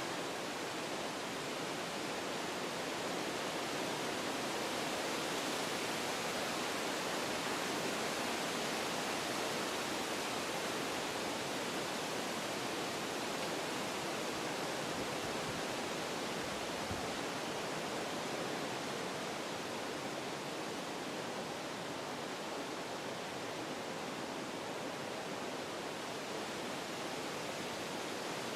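Wind blowing through forest trees, a steady rushing of leaves and branches that swells a little in the first third and then eases.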